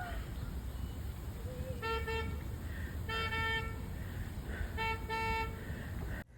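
Car horn sounding three short honks, the middle and last a little longer, over a steady low outdoor rumble.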